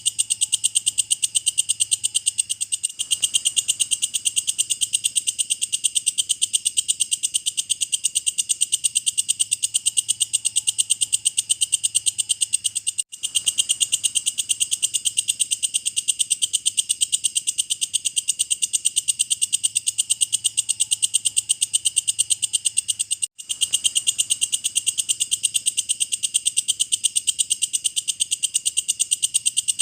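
Walang kecek, an Indonesian bush cricket (katydid), calling without pause in a fast, high-pitched pulsing train of about five pulses a second. The call drops out for an instant about 13 and 23 seconds in.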